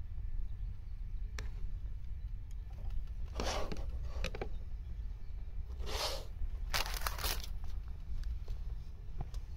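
Plastic food packet crinkling in a few short bursts as an instant miso soup packet is handled and set down on a table.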